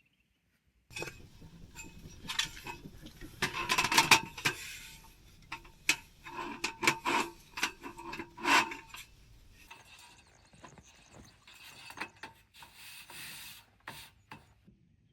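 Camping gear being handled: a run of rubbing, scraping and clicking that starts about a second in, loudest around the middle, then trails off into scattered clicks near the end.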